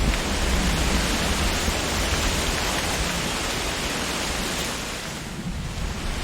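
Wind blowing through the leaves of trees, a steady rushing with a low rumble, easing briefly about five seconds in before picking up again.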